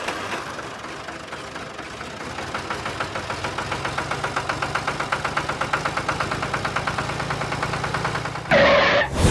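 A small engine runs with a rapid, even knock of about seven beats a second, growing steadier and a little louder a few seconds in. A brief louder sound cuts in near the end.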